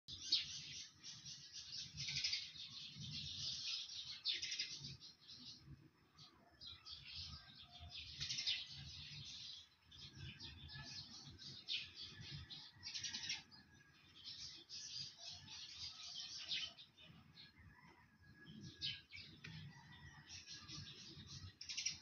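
Birds chirping and twittering in irregular high-pitched bursts of up to about a second, over a faint low rumble.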